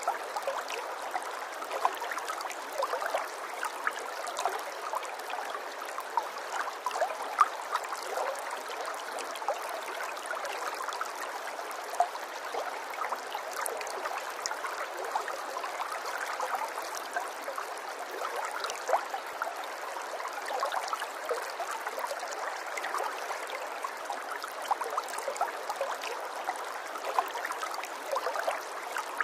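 Small stream of water trickling and gurgling steadily, full of tiny splashes.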